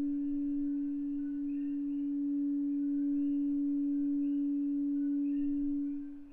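A 285 Hz Solfeggio tuning fork ringing: one steady pure tone that dies away near the end.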